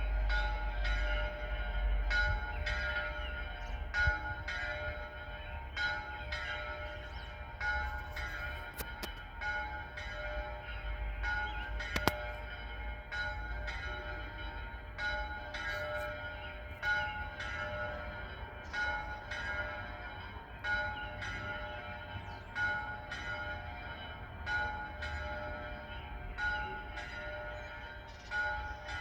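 Two church bells, a medium and a small one, rung together in a Sunday peal: strikes fall in an uneven rhythm of roughly one to two a second, each bell ringing on between strokes. A low rumble lies under the first few seconds.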